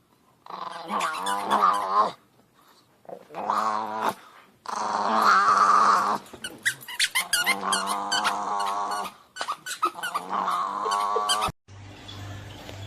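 Dog growling and grumbling in a string of long, pitched vocal bouts with short pauses between them, some rising into squeaky whines.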